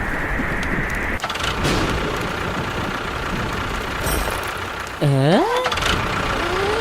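A motor running with a steady, noisy rumble. About five seconds in, a short voice-like call dips and then rises in pitch, and a brief rising tone follows near the end.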